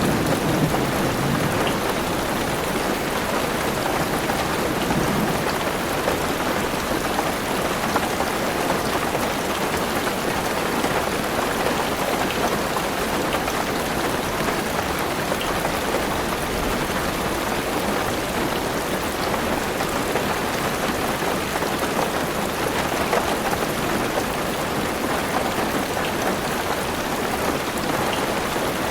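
Heavy rain falling steadily on a car's roof and windows, heard from inside the car. A low thunder rumble dies away in the first second or so.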